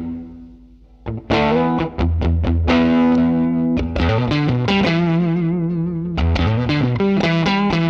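Electric guitar, a Fender Stratocaster played through a Line 6 Helix amp-and-cab model with some distortion. A chord dies away in the first second, then picked chords and single notes resume, with a wavering held note around the middle.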